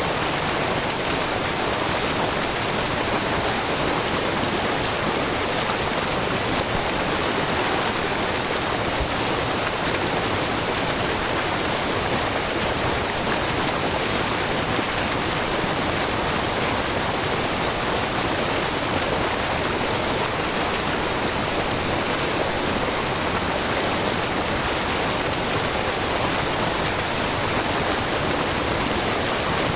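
Shiraito Falls, a low, wide curtain of spring water falling over a rock face, pouring steadily into the pool below with a continuous, even rush of falling water.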